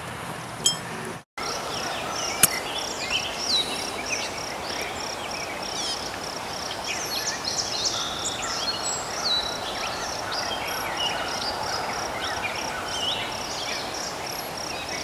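Outdoor ambience of birds chirping and an insect's high call repeating a few times a second over a steady background hiss, with a sharp click about two and a half seconds in.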